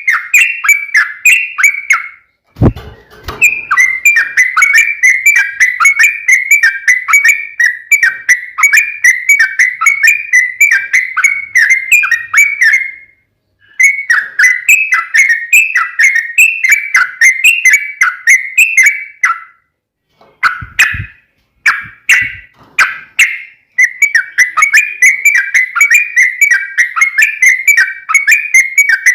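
Yellow-vented bulbul (trucukan) singing a long, rapid run of bubbly repeated notes, broken by a few short pauses. Brief low thumps come about three seconds in and again around twenty-one seconds.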